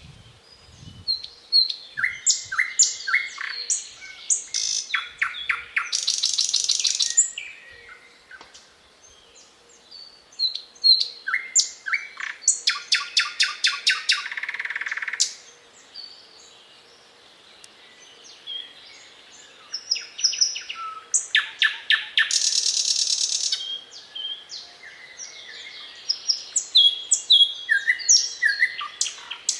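Thrush nightingale singing in four phrases separated by short pauses, mixing clear whistled notes with fast, dry rattles of rapidly repeated clicks.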